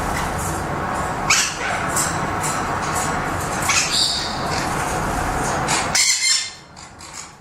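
Pet parrots squawking: several harsh calls, the loudest about a second and a half in and around four seconds, over a steady low noise.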